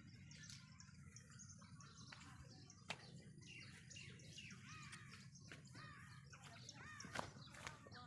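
Faint birds chirping, with a run of quick, arched chirps in the middle and a couple of soft clicks.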